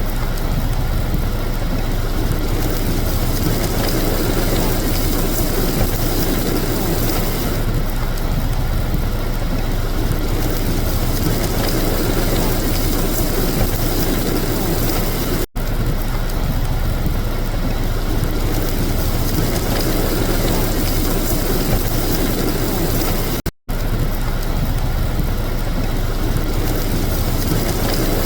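Car engines running: a steady, noisy rumble with no clear tone, cut off briefly twice.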